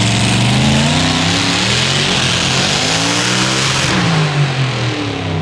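Competition pulling tractor's engine running hard at high revs, its pitch climbing and then falling away. A loud rushing noise over the engine drops off about four seconds in.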